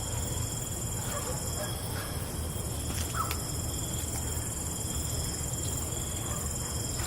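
Night insect chorus, crickets trilling steadily at several high pitches at once, over a low steady rumble, with a few faint clicks now and then.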